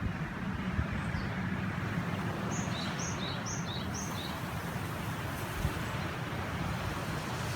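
Steady rush of a mountain river, with wind rumbling on the microphone. About two and a half seconds in, a small bird gives four quick two-note chirps, each a high note followed by a lower one.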